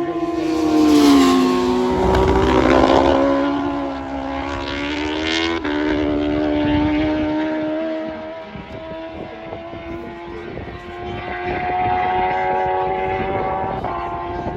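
Racing superbike engines at high revs: the engine note drops sharply in pitch about a second in as a bike passes, another climbs in pitch and breaks off around five seconds in, then a fainter steady engine drone carries on to the end.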